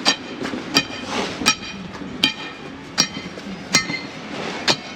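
Footsteps in fresh snow at a steady walking pace, about seven sharp crunching squeaks evenly spaced under a second apart.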